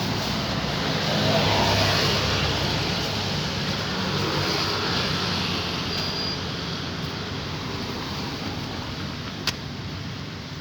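Street traffic noise: a vehicle passing, loudest about a second and a half in and then fading away, with one sharp click near the end.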